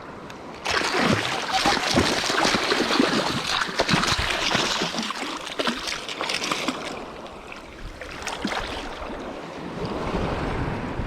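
Ocean surf washing ashore, with wind buffeting the microphone. The wash comes in suddenly under a second in, stays loud for several seconds, eases off, then swells again near the end.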